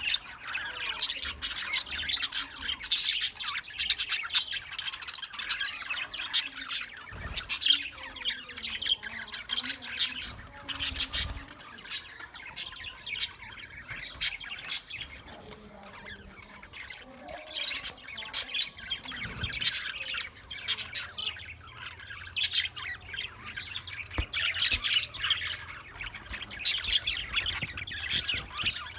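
A loft of caged birds chattering: many overlapping chirps and squawks, continuous and busy, with no pauses.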